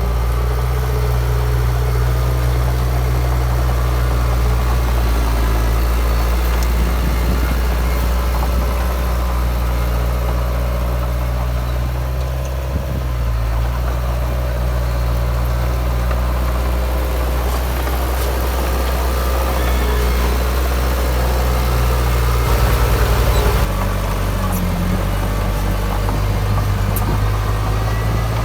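Heavy construction machine's diesel engine running steadily with a low, even note. It gets briefly louder about 23 seconds in.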